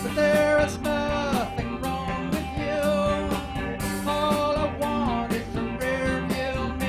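A rock band playing an instrumental passage: sustained electric guitar notes that bend in pitch, over bass and a steady drum beat.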